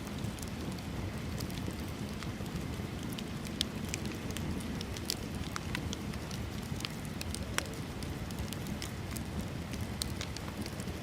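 Wood bonfire crackling steadily, with irregular small clicks and a few sharper pops over a low, steady rush of flame.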